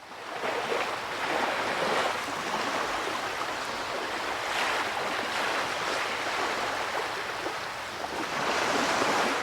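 Ocean waves rushing and breaking with wind, swelling and easing in several surges.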